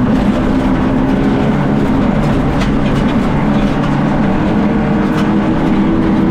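Fiat Egea 1.4 T-Jet rally car's turbocharged four-cylinder engine running hard, heard from inside the cabin along with road noise, its revs climbing toward the end.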